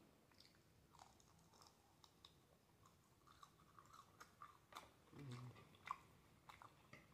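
Faint close-up chewing and mouth smacks of someone eating a strip of bacon, with scattered soft clicks and a brief low hum a little past five seconds in.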